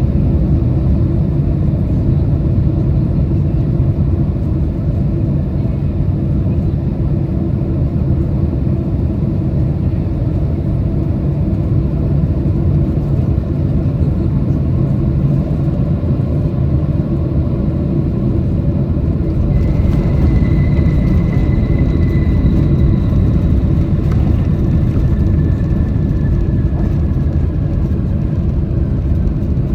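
Boeing 767 cabin on approach: a steady low rumble of engines and air rushing past the fuselage. About two-thirds of the way through, the sound grows a little louder and a high whine comes in, sliding slowly lower in pitch.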